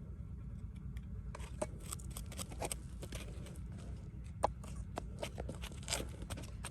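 Scattered scrapes and short clicks over a steady low rumble, with one sharper click about four and a half seconds in.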